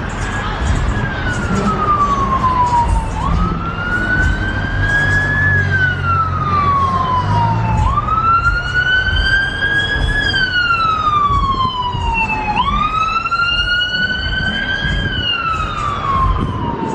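Emergency-vehicle siren in a slow wail: its pitch climbs and then slides down again about every four to five seconds, growing clearer in the second half. A low rumble runs underneath.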